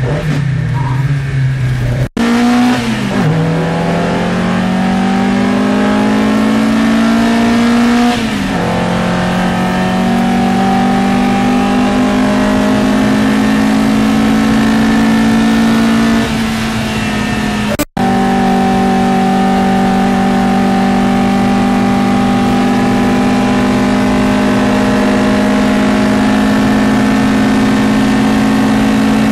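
In-car sound of a Matra Jet 6's Renault Gordini 1296 cc four-cylinder engine under racing load. It climbs in revs, drops sharply on an upshift about eight seconds in, then runs at high, nearly steady revs. The sound cuts out briefly twice, near two seconds in and again at about eighteen seconds.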